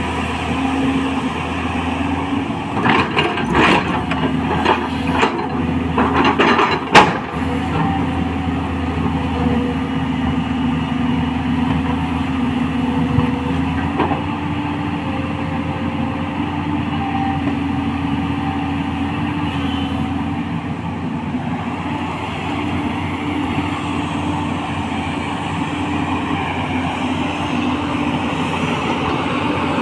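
A 210LC excavator's diesel engine running steadily. A series of sharp knocks comes about three to seven seconds in, the loudest near seven seconds.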